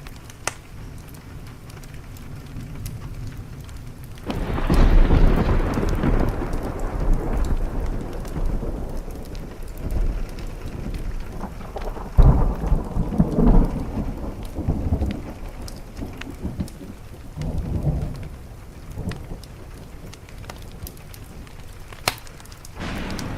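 A thunderclap breaks in about four seconds in and rolls on as a long rumble, with louder peaks midway and a last swell before it dies away. Steady rain patters underneath throughout.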